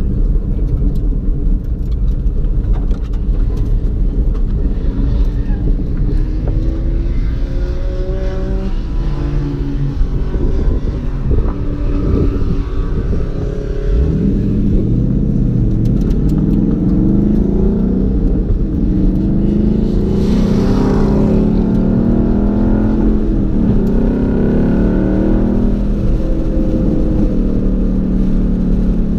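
Car engine heard from inside the cabin, accelerating through the gears: pitch rises in repeated sweeps that break off at each shift, pulling harder and louder from about halfway through. A brief rushing noise comes about two-thirds of the way in.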